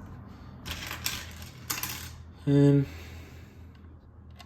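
LEGO plastic pieces clicking and rattling as they are handled, with a few sharp clicks in the first two seconds. About two and a half seconds in, a man gives a brief hum.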